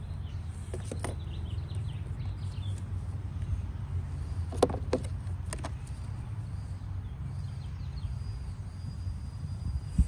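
A few sharp clicks and knocks of plastic handle parts being handled and fitted onto a string trimmer shaft, over a steady low hum, with birds chirping in the first few seconds.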